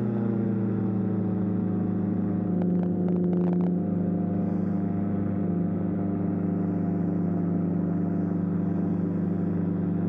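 Light aircraft's engine and propeller running steadily at cruise power, at about 5,200 RPM; the pitch sags slightly in the first couple of seconds as the power settles, then holds even.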